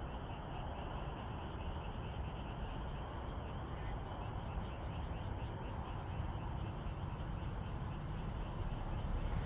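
Chorus of frogs calling in fast, steady pulsing trills, over a low rumble that grows louder near the end.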